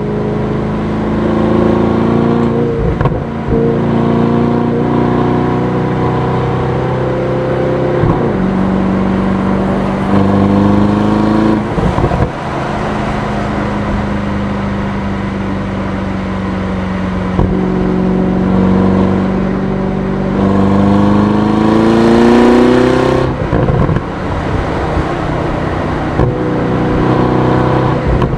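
Aston Martin DBX S's 4.0-litre twin-turbo V8 under way, mostly running at a steady cruise. It makes several short pulls where the engine note climbs in pitch and then drops sharply at an upshift. The longest and loudest pull comes about two-thirds of the way through.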